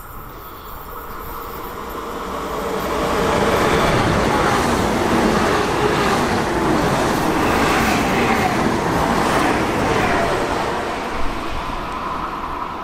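A train passing on the line. Its rail and running noise builds over the first few seconds, stays loud for several seconds, then eases slightly near the end.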